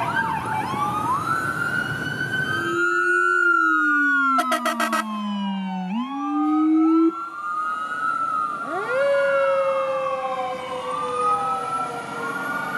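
Police car sirens wailing, several overlapping and sliding up and down in pitch. In the middle, a much lower Rumbler siren tone falls slowly and then sweeps back up. There is a short burst of rapid clicks about four and a half seconds in, and heavy traffic rumble at the start.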